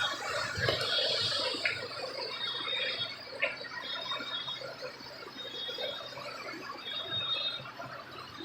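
Short, high electronic beeps repeating about once a second, over a steady rushing background noise.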